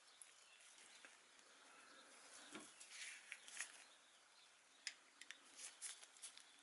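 Near silence with faint, scattered light clicks and taps.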